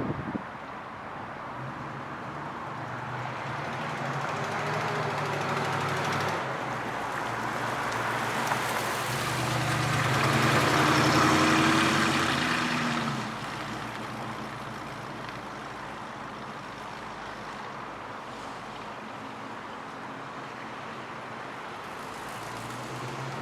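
The pickup's 350 V8 running as the truck drives, growing steadily louder to a peak about ten to twelve seconds in. It then falls off sharply to a lower, steady engine sound.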